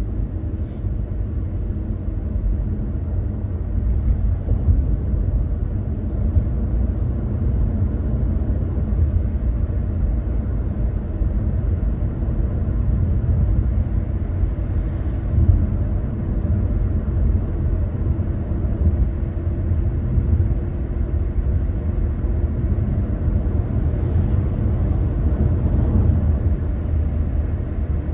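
Car driving along the road: a steady low rumble of engine and tyres, with a faint held drone running underneath.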